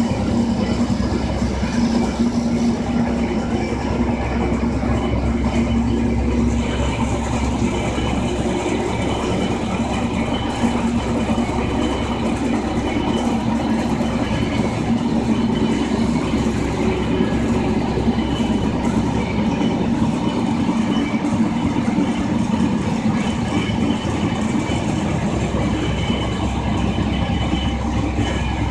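Steady engine and running noise of a JR Shikoku 2000 series diesel railcar, with a constant low hum and faint rail clatter.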